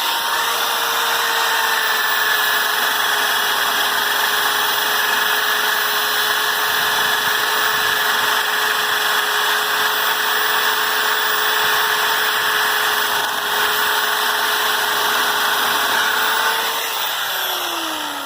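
Electric drill spinning a wire wheel brush against rusty steel grill rods: a steady motor whine over a harsh scouring hiss as the rust is stripped off. Near the end the drill is let off and its whine falls away as it spins down.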